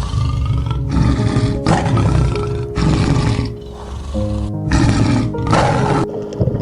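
A large animal roaring in a series of short, deep calls about a second apart, over background music.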